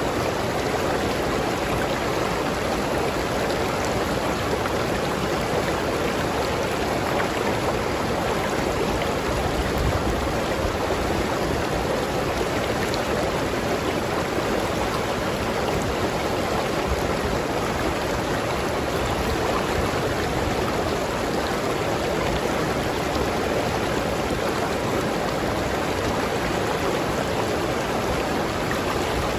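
River water flowing steadily over rocks, a constant rushing and burbling.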